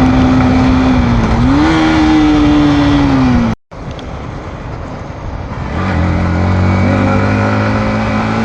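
Yamaha MT-15's single-cylinder engine running on the move, its note rising briefly about a second and a half in, then sinking back. The sound cuts out for a moment a little over three seconds in, returns quieter, then grows into a steady, deeper engine note.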